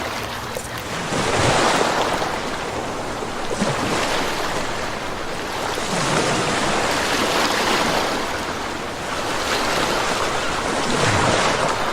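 Sea waves breaking and washing in, the rush swelling and easing every two to three seconds.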